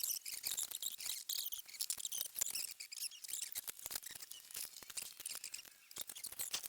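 Hand socket ratchet clicking in quick, uneven runs of light ticks as nuts on the mower deck's covers are worked loose.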